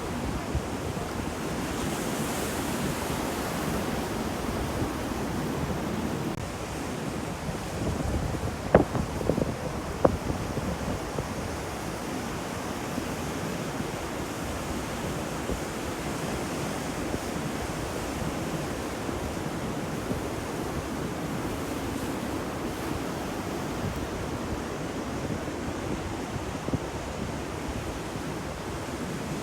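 Ocean surf washing in steadily as an even rush, with wind. A few brief sharp knocks or splashes come about nine to ten seconds in.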